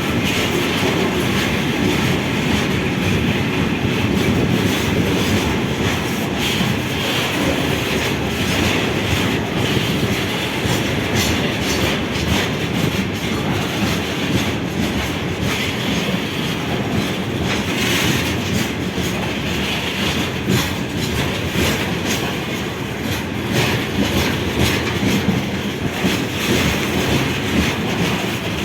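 A train running past on the rails, wheels clattering over rail joints with a continuous steady rumble.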